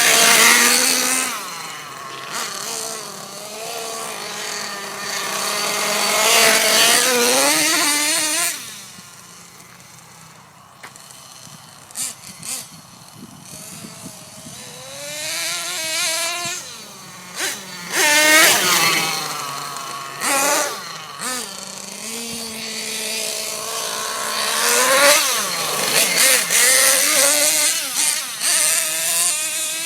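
Nitro RC monster truck's small two-stroke glow engine revving up and down in repeated bursts as it is driven, its pitch climbing and falling with each throttle blip. It drops to a quieter stretch about a third of the way through before revving hard again.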